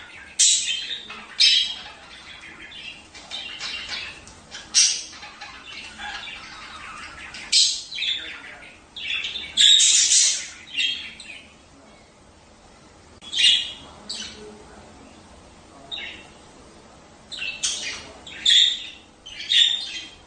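A group of budgerigars chirping, chattering and squawking in irregular bursts, with louder calls about half a second in, near 5 s, around 8 and 10 s, and several in the last few seconds.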